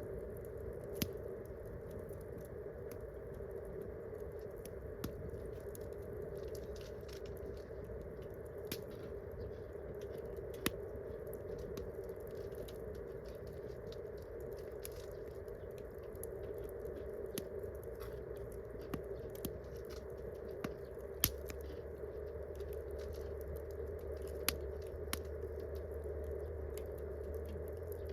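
Wood campfire burning, with sharp, irregular pops and crackles over a steady hiss. A faint low hum comes in about three-quarters of the way through.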